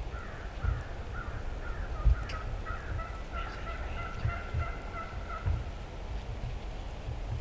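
Wild turkey gobbling: a rattling, pitched call that runs for about five seconds and fades out, with low bumps on the microphone underneath.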